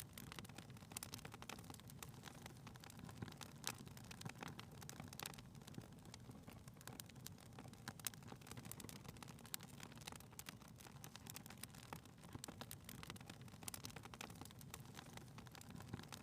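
Wood fire in a fireplace crackling faintly, with irregular small pops over a low steady rumble.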